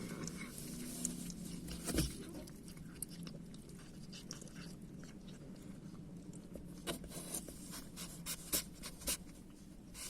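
Stray cats eating from a box of food: scattered small clicks and crackles of chewing and of food shifting in the box, with one louder knock about two seconds in and a run of clicks in the second half.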